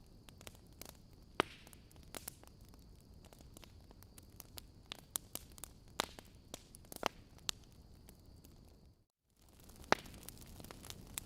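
Log fire in a fireplace crackling: irregular sharp pops and snaps over a low hiss, with a faint steady high tone. About nine seconds in, the sound cuts out for a moment, then the crackling resumes without the tone.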